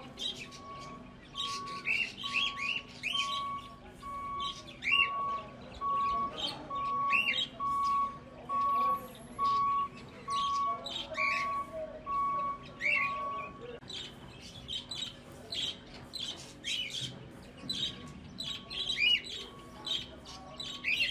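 Birds chirping in many short, repeated tweets. Under them a steady electronic beep sounds about once a second, pauses for a few seconds past the middle, then resumes near the end.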